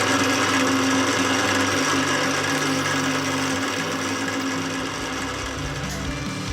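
Milling machine running with a 10 mm cutter taking a half-millimetre cut along a drive shaft: a steady motor hum and whir under the hiss of cutting, easing off slightly near the end.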